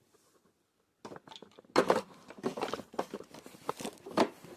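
Handling noise: a rapid, irregular string of clicks, taps and rustles, starting about a second in after near silence.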